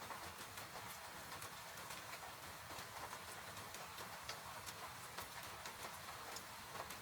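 A wood fire crackling, with irregular sharp pops and snaps, over the steady hiss of rain.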